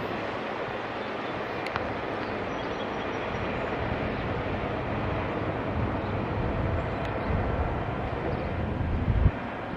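A SEPTA regional rail train passing through the station: a steady rumble of wheels on rail that builds toward the end, with a short low thump about nine seconds in.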